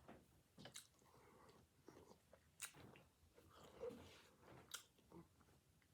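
Faint chewing with a few scattered small mouth clicks, from someone eating a salad.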